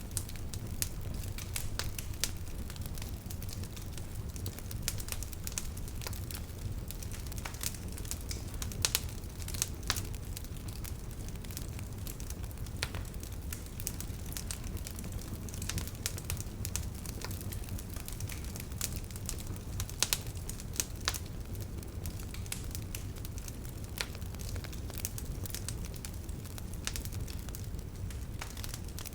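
Wood bonfire crackling: irregular sharp pops and snaps of burning wood over a low steady rumble, with a few louder pops about nine seconds in and again around twenty seconds.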